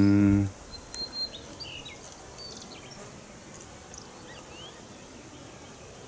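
Wild birds chirping on a forested mountain ridge: several short, scattered calls, some rising, over a faint steady outdoor hiss.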